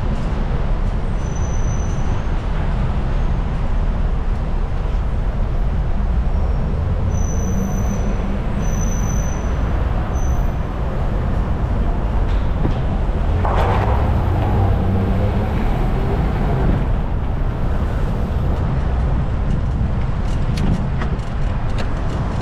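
Steady city traffic noise with a heavy low rumble, heard while riding a bicycle. About 13 seconds in, a louder, hissing noise swells and fades.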